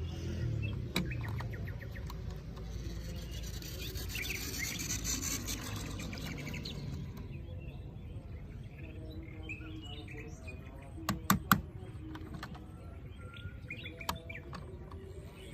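Birds chirping over a steady outdoor background, with a quick cluster of sharp clicks about eleven seconds in.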